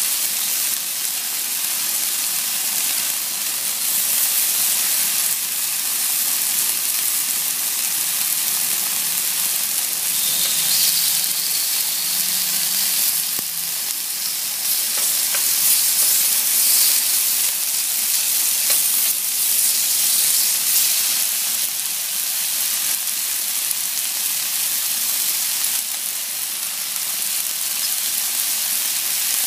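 Raw chicken strips sizzling on a hot ridged grill pan: a steady frying hiss that swells now and then.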